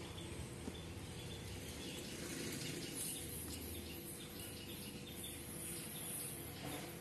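Close-up chewing and mouth sounds of a person eating rice and fish by hand, with a run of short high chirps over the second half.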